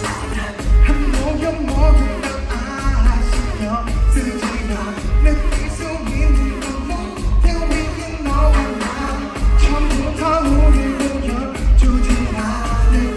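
K-pop song playing: a singer's voice over a heavy, pulsing bass beat.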